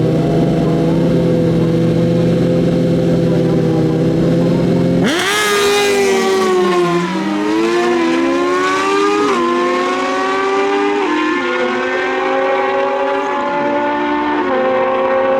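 Drag-racing stock sport bikes held at steady high revs on the start line, then launching hard about five seconds in. The engine note climbs, drops at each upshift, and climbs again through several gears.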